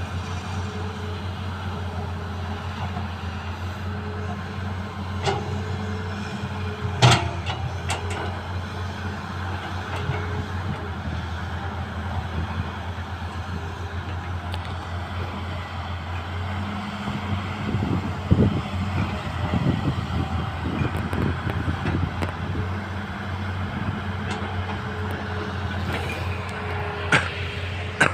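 Hitachi excavator's diesel engine running steadily. A few sharp knocks come through, and about halfway through there is a stretch of clattering.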